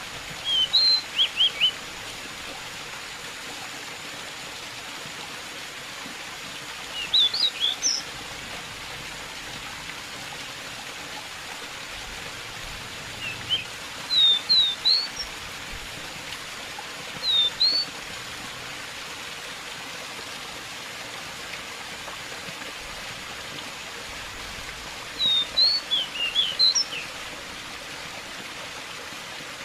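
Steady running water with a pied bushchat (decu) singing over it in short bursts: five quick phrases of a few high, upward-flicking chirps, spaced several seconds apart.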